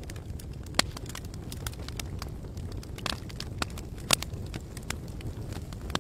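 Campfire wood burning and crackling: irregular sharp pops and snaps over a low steady rumble, with two louder pops, one just before a second in and one about four seconds in.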